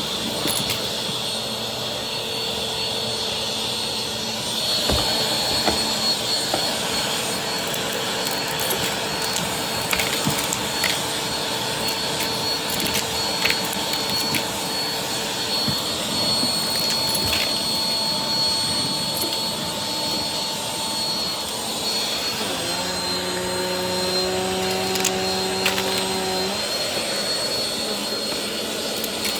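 Vacuum cleaner running steadily through a floor vacuuming pass, with scattered small clicks. About three-quarters of the way through, its tone changes to a different, lower-pitched note for a few seconds, then returns.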